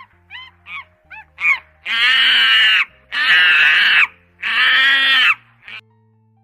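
An animal calling: four short rising-and-falling cries, then three long, loud, harsh cries of about a second each, and one last short cry.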